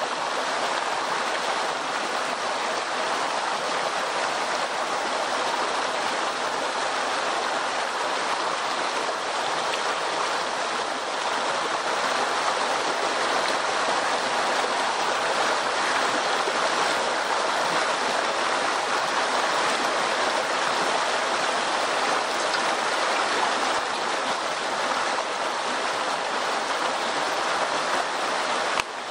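Steady rush of running water, like a stream, unchanging throughout, with a brief drop in level just before the end.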